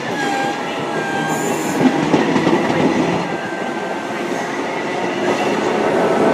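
A Class 90 electric locomotive-hauled passenger train with Mark 3 coaches rolls into the platform. Its wheels rumble and clatter over the rails, with thin brake and wheel squeals, and it grows louder toward the end.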